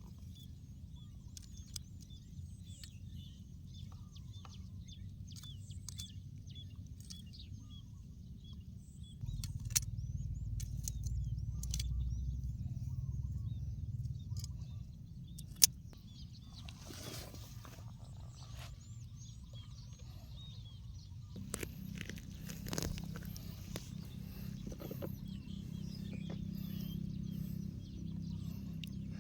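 Outdoor ambience: scattered short bird chirps over a steady low rumble, with a few sharp clicks, one loud click past the middle.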